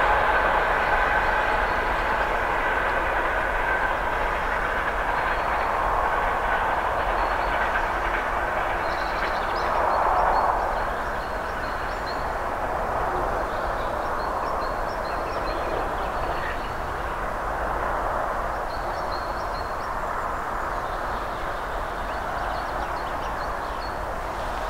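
Passenger train running away down the track, the steady rumble of its wheels on the rails slowly fading as it recedes.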